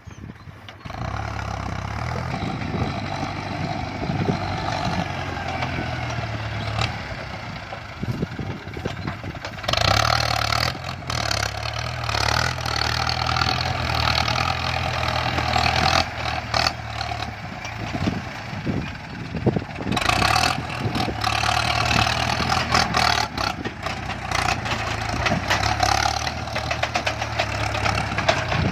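Heavy diesel engine running steadily, growing louder and harsher for a couple of seconds about ten seconds in and again from about twenty seconds in.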